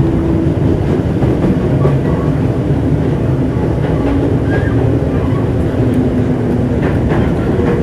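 JR East 205 series electric train, motor car with inner-fan traction motors, running on the line, heard from aboard. A steady rolling rumble carries a faint hum from the motors and gears that shifts slowly in pitch, with a few light clicks from the wheels on the rails.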